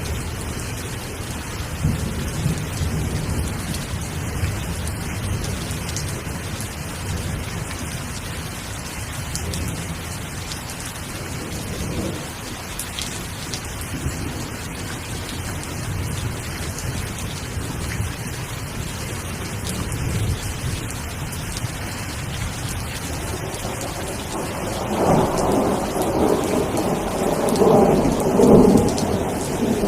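Steady rain falling, with thunder rumbling low underneath. A louder roll of thunder builds about 25 seconds in and peaks near the end.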